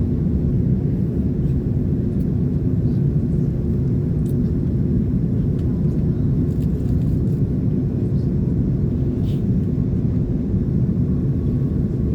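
Steady low rumble of an airliner in flight, engine and airflow noise heard inside the passenger cabin, with a faint steady hum.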